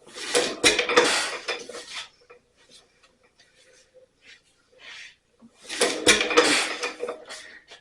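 1927 Ottawa 4-5 HP stationary engine spun over by hand on its flywheel in two starting attempts, each a burst of metallic clatter lasting about two seconds, near the start and again about six seconds in.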